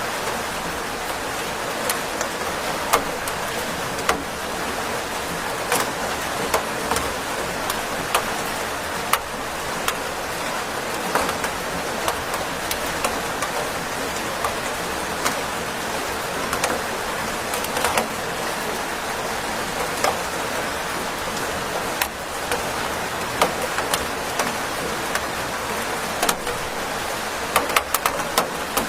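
Steady rain with a constant hiss and many individual drops ticking sharply at irregular intervals.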